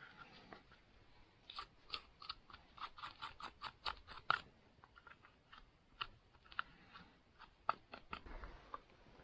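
A saw being worked on by hand, likely sharpened: a quick, even run of short crunchy scraping strokes, about five a second, then slower, sparser strokes.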